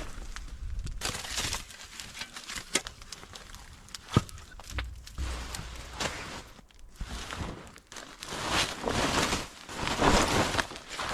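Irregular crunching and scuffing footsteps in snow, with a few sharp knocks in between and a denser run of crunching near the end.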